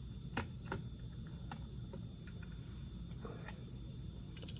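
Light, scattered clicks and taps of small die-cast toy cars being handled and picked out of a collector's case, about six in all.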